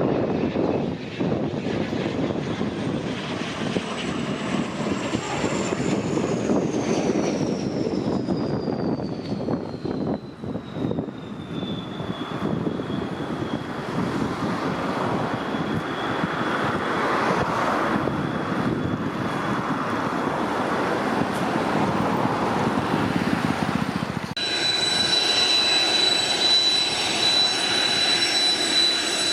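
Kawasaki T-4 jet trainer's twin turbofans passing by, the engine whine falling steadily in pitch as it goes. About 24 s in, a cut brings a steady, high turbofan whine of a T-4 on the ground.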